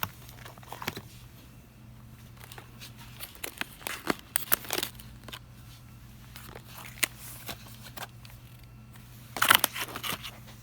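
Scattered crinkling, rustling and light clicks of packaged goods being handled, over a steady low hum, with the loudest burst of crinkling near the end.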